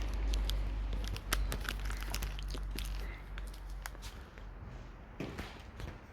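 Scattered sharp clicks and small rustles close to the microphone over a low rumble that slowly fades.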